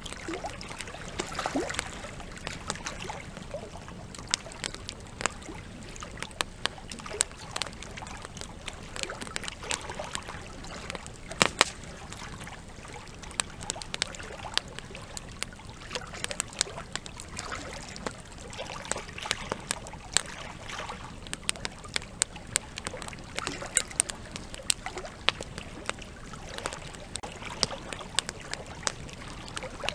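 Campfire crackling with frequent irregular sharp pops, a loud pair about eleven seconds in, over the steady rush of a flowing river.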